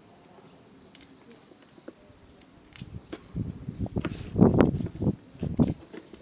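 Crickets chirping steadily in the background; from about three seconds in, close, irregular rustling and scuffing noises come in and become the loudest sound.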